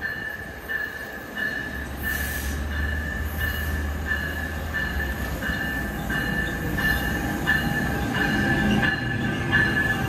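NJ Transit train moving through the station: a high, steady squeal pulsing about every half second over a low rumble, growing louder toward the end.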